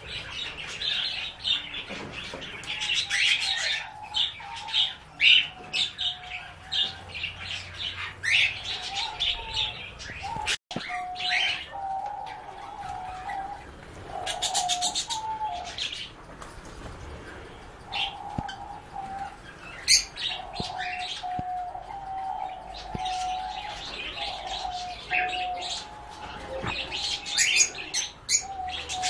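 Several birds chirping and calling together: many short high chirps over a lower wavering, warbling call that comes and goes in stretches of a second or more.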